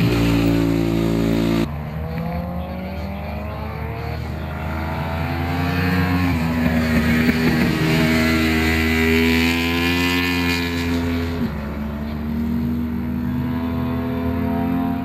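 1000 cc superbike racing motorcycle engines at high revs, the pitch rising and falling as they accelerate and shift gears. There is an abrupt change in the sound about a second and a half in.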